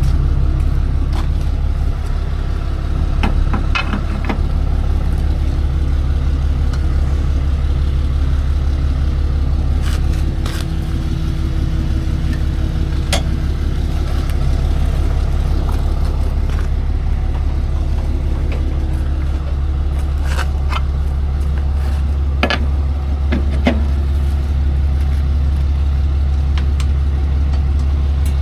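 Tow truck's engine idling steadily, with scattered metal clanks and knocks as the wheel dollies are handled and lowered.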